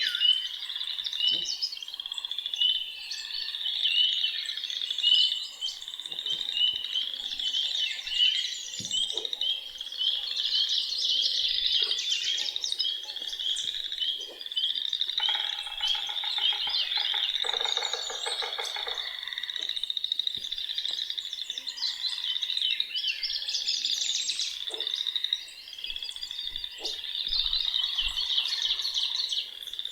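A spring chorus of songbirds chirping and singing over a dense, steady chorus of calling frogs. A lower, rapid pulsing trill joins in about halfway through and lasts a few seconds.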